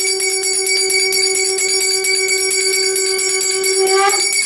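A conch shell blown on one long steady note that rises in pitch and breaks off about four seconds in, over temple bells rung in a rapid jingling.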